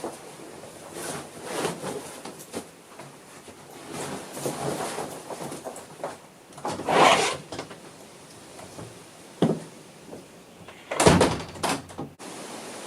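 A door being opened and shut, with scattered bumps, rustles and clunks; the loudest clunks come about seven seconds in and again about eleven seconds in. Near the end it cuts off sharply into a steady hiss of wind.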